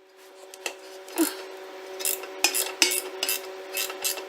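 A 17 mm wrench working a suspension bolt: irregular sharp metal clicks and scrapes, roughly two a second, over a faint steady hum.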